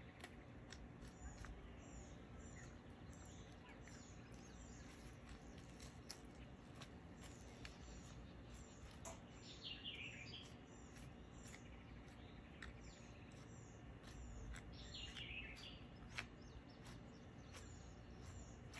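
Faint ambience with birds: a small high chirp repeated about three times a second, and twice a longer call that falls in pitch, over a low steady background hum.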